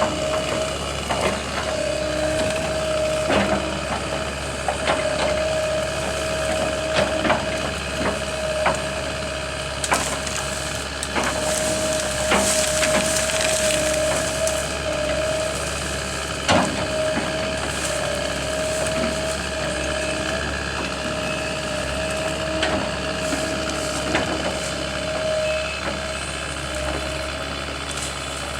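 Wood cracking and splintering in many sharp snaps, as limbs break during tree removal, over a steady humming machine tone.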